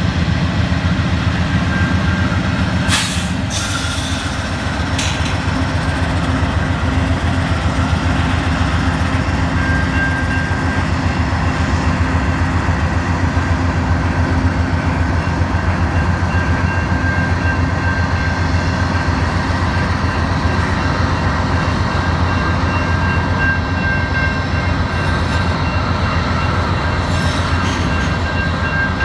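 Train cars rolling steadily past, a continuous rumble of steel wheels on rail. A few sharp clicks come about three to five seconds in, and a faint high steady ring runs through the later part.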